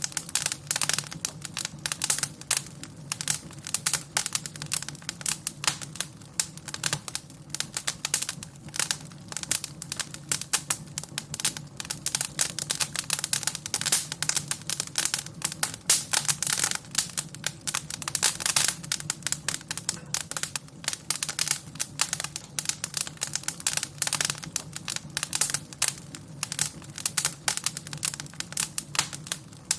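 Wood fire in a fireplace crackling, with dense, irregular pops and snaps over a low, steady background.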